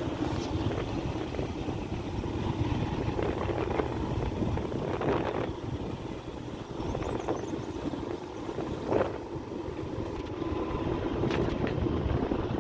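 Motorcycle ride: engine running with wind rushing over the microphone, a steady fluctuating rumble.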